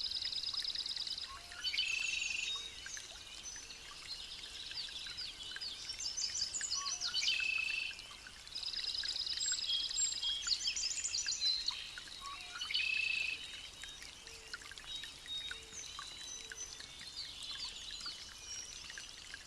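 Several wild birds calling in tropical forest. One repeats a fast, high trill that returns about every nine seconds, among shorter chirps and whistles.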